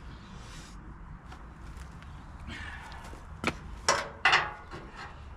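Metal clanks from tools on a steel trailer frame: three sharp knocks about half a second apart a little past halfway, each with a brief ring, after some faint shuffling and handling noise.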